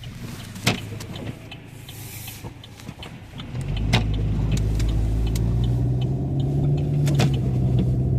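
Car cabin noise while driving: a low engine hum and road rumble that swell up sharply about three and a half seconds in as the car picks up speed, under small regular ticking and a few sharp knocks.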